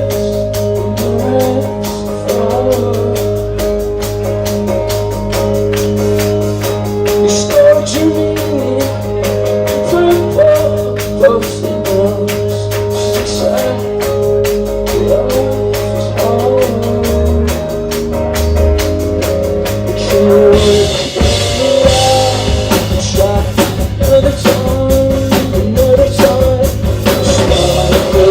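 Live rock band playing: held chords over a steady, even hi-hat tick. About two-thirds of the way through, the drums and cymbals come in louder and fuller.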